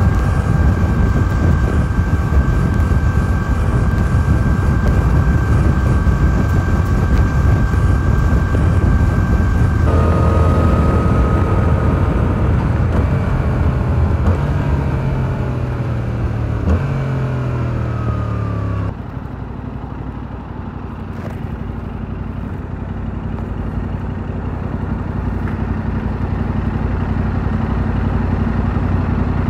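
2022 Yamaha R7's 689 cc parallel-twin engine through its stock exhaust: running steadily at cruising speed, then from about ten seconds in dropping in pitch in several steps as the bike slows and downshifts. About two-thirds of the way in, the rushing road noise stops suddenly and the engine settles to a low, steady idle.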